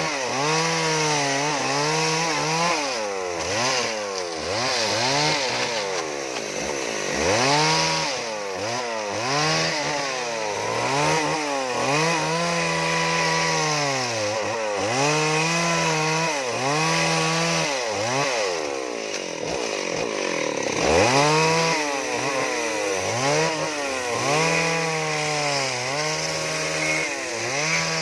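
Two-stroke chainsaw carving wood, the engine revving up and dropping back again and again as the cut is worked. About two-thirds through it falls to a low idle for a couple of seconds, then revs up again.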